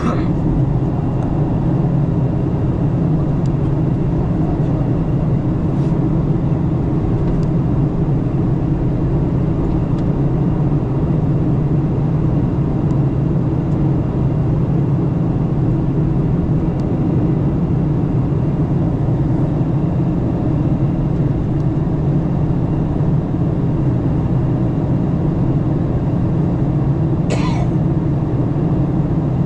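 Steady low drone inside the cabin of a Boeing 737-900 in descent: its CFM56-7B jet engines and the airflow over the fuselage. A brief, sharper noise cuts in once near the end.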